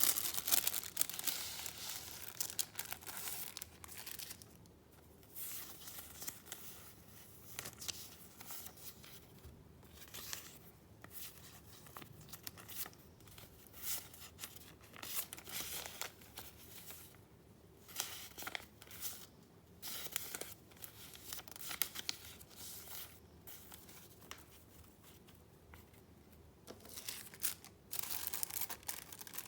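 Paper being handled: irregular rustling and crinkling of sheets and paper pieces, in uneven bursts, loudest at the start and again near the end.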